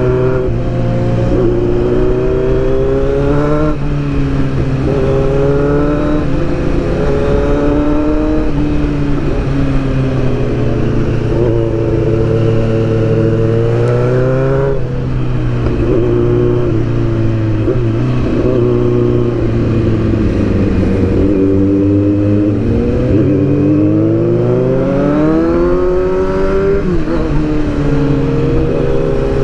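Sportbike engine heard from on the moving motorcycle, its pitch climbing under throttle for a second or two and then dropping back, again and again through the bends, with a longer slow climb near the end. A steady low wind rush runs underneath.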